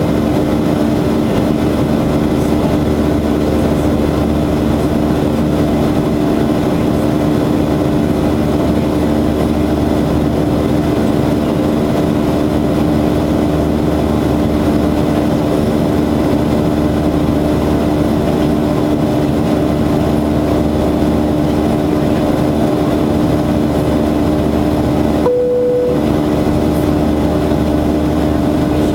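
Steady cabin noise of a Boeing 737-800 in flight: the drone of its CFM56-7B engines and the rush of air past the fuselage, with a few held low hums. About 25 seconds in, a short single tone sounds briefly.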